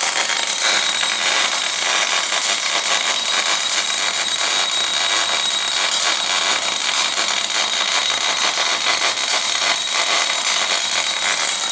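Orbital welder's arc burning steadily as it lays a bead on cast iron: a continuous loud hiss and crackle with a faint steady high tone.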